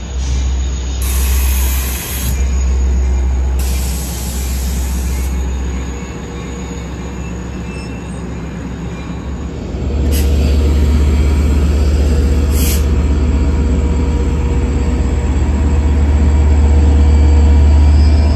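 Long Island Rail Road diesel locomotive and bilevel coaches rolling past along the platform, a steady low rumble with wheel and rail noise. About ten seconds in it gets clearly louder and deeper as the diesel locomotive comes close.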